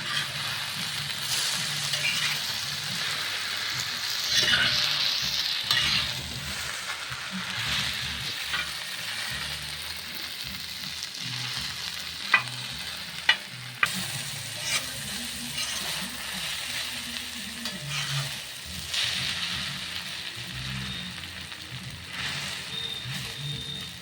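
Boiled chow mein noodles and sauce sizzling in a hot kadai while being stirred and tossed with a spatula, with three sharp knocks of the spatula on the pan about halfway through.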